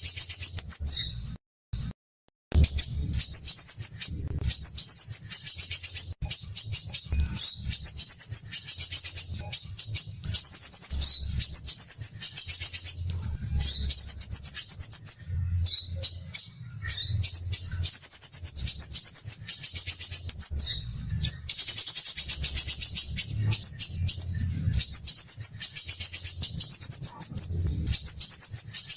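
Crimson sunbird (sepah raja) singing fast, harsh, tightly packed high trills in phrases of a second or two with brief breaks, after a short pause about a second in. A low rumble runs beneath.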